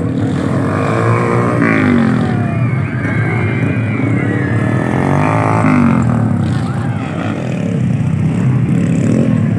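Several motocross motorcycle engines revving, their pitch rising and falling as the bikes overlap.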